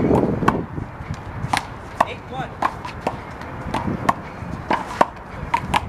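A rubber handball rally: the ball is slapped by hand and bounces off the wall and court. It makes a quick, irregular series of sharp slaps and knocks.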